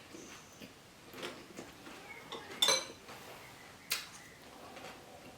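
Cutlery clinking and knocking against a dish three times, the loudest clink a little past halfway.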